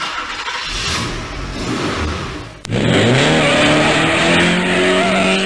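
Car engine: first an even, noisy stretch, then after an abrupt cut about two and a half seconds in, the engine revs up and holds at a steady higher pitch.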